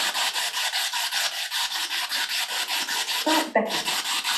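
Spirit box sweeping through radio stations: rapid chopped static pulsing about seven times a second, with a brief snatch of radio sound and a short drop-out about three and a half seconds in.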